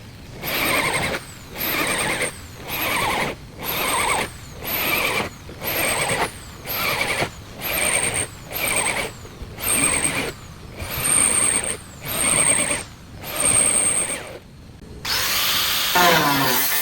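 A power tool run in over a dozen short bursts, a little more than one a second, each with a high whine, like drilling or cutting into sheet metal; near the end it gives way to a steadier continuous noise.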